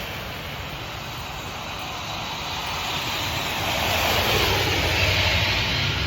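A passing vehicle: a steady rushing noise that swells from about halfway through and eases off near the end.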